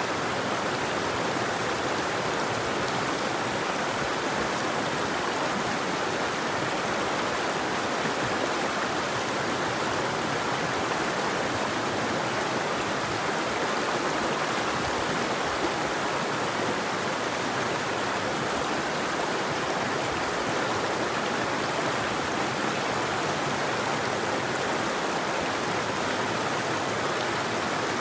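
River water flowing in a steady, even rush, with no birdsong.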